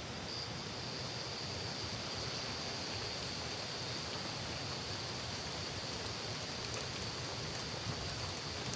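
Steady rushing water noise from heavy rain and the river, with a thin, high, steady tone running over it.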